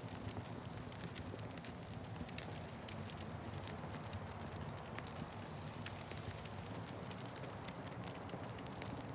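Wood fire crackling: a steady low rumble of burning with frequent small, sharp pops and snaps scattered irregularly.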